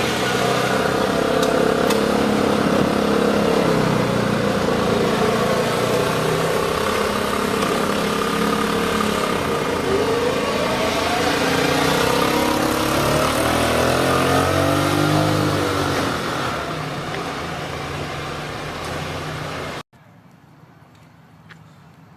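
Motor vehicle engine running and being revved, its pitch rising and falling about halfway through. It cuts off suddenly near the end.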